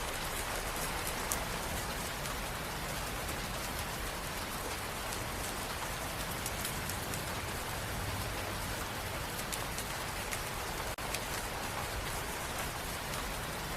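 Steady rain falling, a continuous even wash with the patter of individual drops, broken by a very brief drop-out about eleven seconds in.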